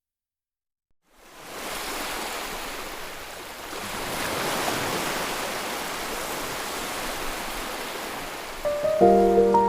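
Steady rushing of sea waves on a shore, fading in after about a second of silence. Background music with sustained melodic notes comes in near the end.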